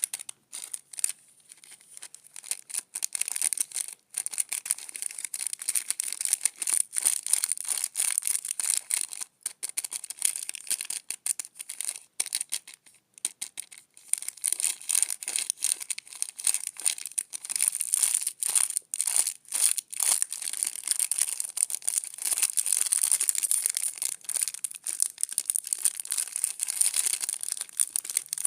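Candy wrapper being crinkled and torn open close to the microphone: dense, irregular crackling in quick bursts and runs, as the Bear Pop chocolate candy is unwrapped.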